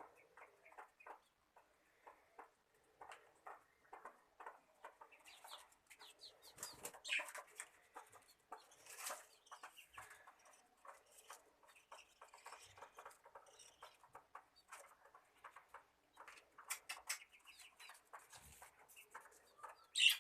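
Pet birds chirping: many short chirps, busier and louder from about five to ten seconds in.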